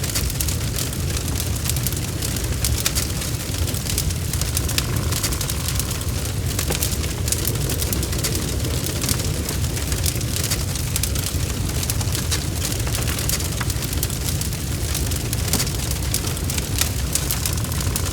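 Wood fire burning in a fireplace, crackling steadily with many small sharp pops over a constant low rumble.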